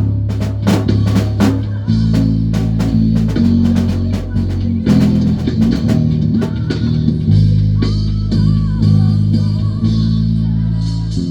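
Live band playing an instrumental passage of a worship song: electric bass guitar carrying changing low notes under drum kit and sustained keyboard chords. The drum hits are dense for the first half, then thin out, leaving held bass notes and keys.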